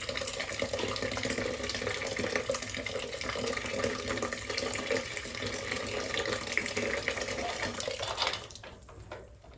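Hot water running hard out of a heating boiler's drain as the blocked water-level gauge glass is flushed of mud and scale, now running clean. The flow is shut off about eight and a half seconds in.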